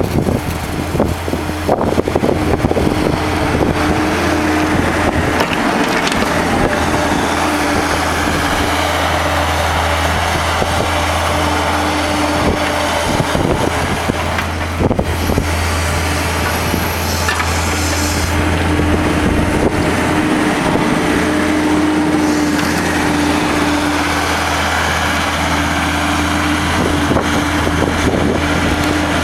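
Skid steer engine running steadily while it plows snow, with a steady tone that drops out and returns a few times. Wind buffets the microphone throughout.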